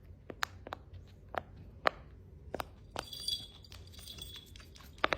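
A series of short, sharp pops or clicks at irregular intervals, roughly one every half second.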